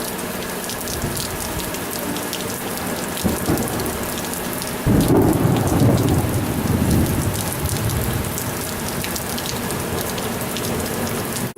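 Heavy monsoon rain falling steadily, with a roll of thunder that comes in suddenly about five seconds in and rumbles away over the next few seconds.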